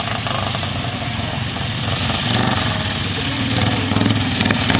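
Racing lawn mower engines running steadily, growing a little louder after about two seconds in.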